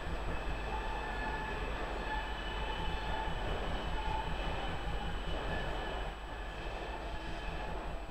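Steady rumble of DSB IC3 diesel trainsets standing at the platforms with their engines idling. Faint high tones come and go about once a second over the first few seconds.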